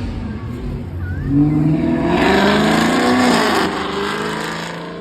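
A car engine revving up. Its pitch rises about a second in and stays loud for about two seconds, then drops as the sound fades away.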